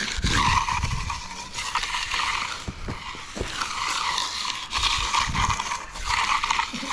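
Hand finishing tool scraping and rubbing across wet concrete in repeated strokes, roughly one a second, with a few light knocks.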